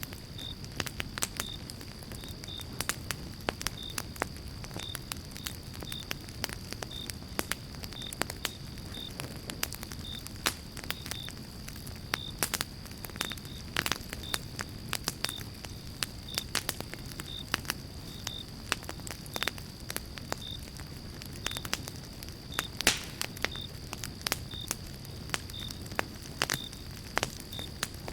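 Pine-log campfire crackling and popping, with frequent sharp snaps over the low steady rush of the flames. A faint steady high tone and a faint high chirp repeating about once or twice a second run underneath.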